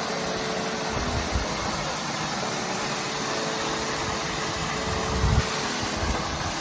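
Waterfall rushing steadily into a river pool, with a few low thumps about a second in and again a little after five seconds.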